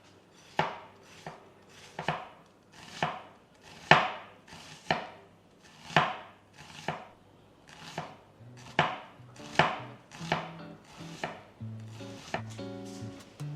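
Knife chopping on a cutting board: separate, unhurried cuts about one every half-second to a second. Near the end, soft guitar music comes in.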